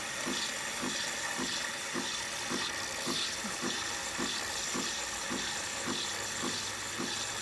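Nespresso Lattissima One capsule machine running mid-cycle, dispensing into the cup: a steady watery hiss with a soft regular pulse about twice a second.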